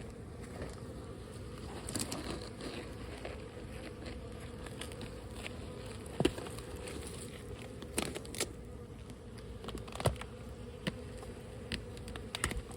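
A honeybee colony buzzing steadily, disturbed as it is opened out of brickwork, with a few sharp knocks scattered through it, the loudest a little past the middle.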